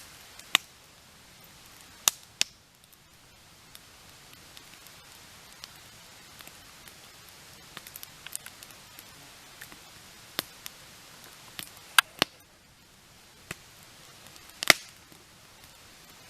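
Campfire burning: wood crackling, with irregular sharp pops over a steady soft hiss and a few louder pops scattered through.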